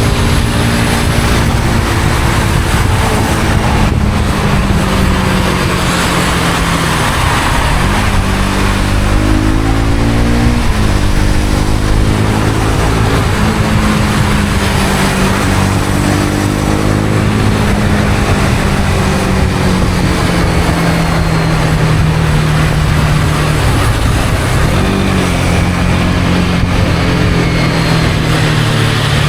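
Honda CB250R's single-cylinder engine running under way, its note drifting with the throttle and dipping briefly then climbing back about seven seconds in and again near the end, over a steady rush of wind and wet-road noise.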